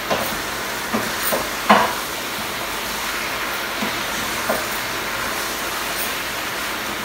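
Potatoes and aubergine frying in a wok, a steady sizzling hiss, with the spatula scraping and knocking against the pan a few times as the food is stirred, the loudest knock a little under two seconds in.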